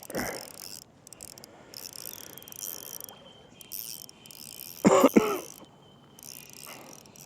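Small spinning reel being wound in, its gears ratcheting, as a hooked bream is played on light line. A short loud vocal sound comes about five seconds in.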